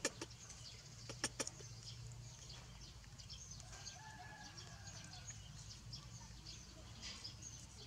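Faint outdoor background of small bird chirps. Two sharp clicks come about a second in, and a drawn-out, slightly falling call lasts about a second near the middle.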